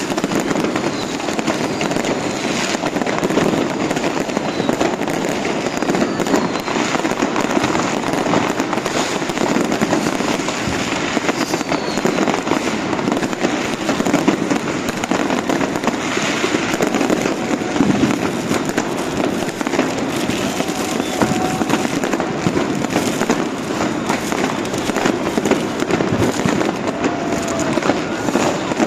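Dense, continuous barrage of New Year's Eve fireworks and firecrackers going off, a steady crackle of many overlapping bangs with a few short whistles mixed in.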